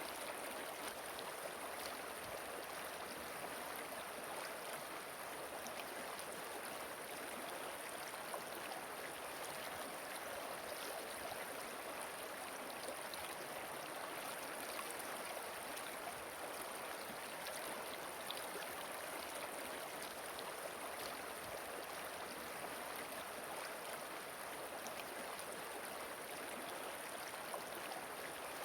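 A river flowing steadily, a continuous rushing of water with many small splashes and trickles.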